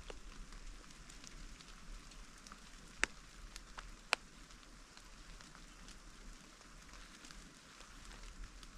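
Rain falling as a faint, steady patter of drops, with two sharper, louder drop ticks about three and four seconds in.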